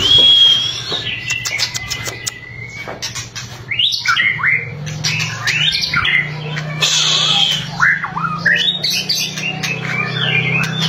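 White-rumped shama (murai batu) singing: a clear whistle and a long held note, a run of quick sharp clicks, then fast varied phrases of rising and falling whistled notes. A steady low hum runs underneath.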